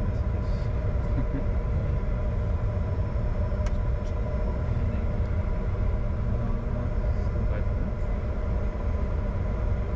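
Steady low rumble with a constant hum inside the cockpit of a Bombardier Challenger 605 business jet, its engines running.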